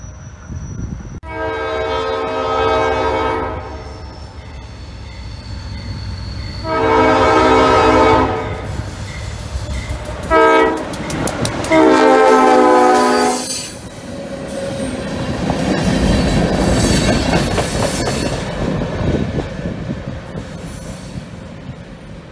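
Diesel freight locomotive horn sounding the grade-crossing signal: two long blasts, one short and a final long one. Then the locomotive and its cars roll past close by, wheels clattering over the rail joints with a thin high squeal, and the noise fades as the train moves away.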